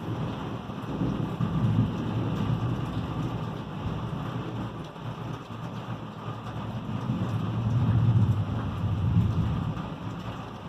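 Thunder rumbling over steady rain during an electrical storm. The low rumble swells twice, and the louder roll comes about eight seconds in.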